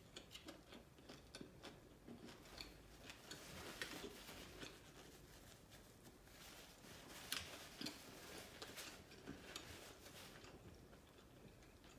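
Faint, close-miked eating sounds: chewing of seafood-boil food with many small wet mouth clicks, and fingers picking through sauce-covered pieces in a glass bowl.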